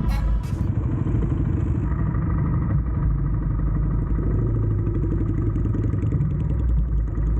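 Motorcycle engine running steadily under way, its pitch shifting slightly as the rider eases the throttle.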